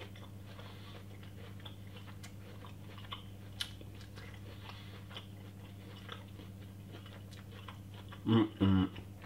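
A person chewing a mouthful of cooked broccoli salad: soft, irregular crunching and mouth clicks over a steady low hum, with a brief louder voice sound about eight seconds in.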